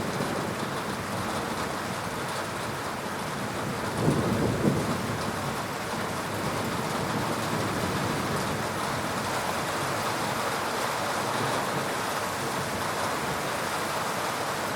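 Heavy rain falling steadily during a thunderstorm, with a short burst of thunder about four seconds in.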